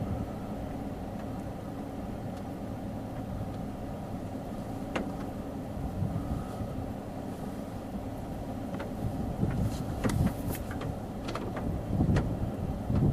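Steady low rumble of a car running, with a few sharp clicks and a louder swell near the end.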